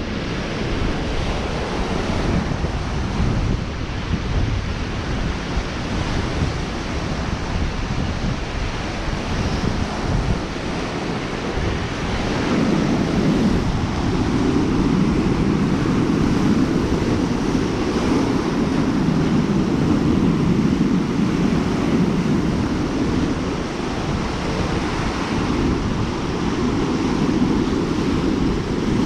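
Lake waves washing onto the shore, mixed with wind buffeting the microphone. The low wind rumble grows heavier a little under halfway through.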